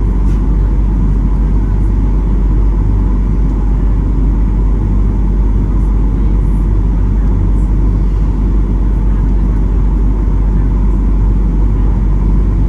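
Steady, loud low rumble of a Boeing 737-800's engines and airflow, heard inside the passenger cabin.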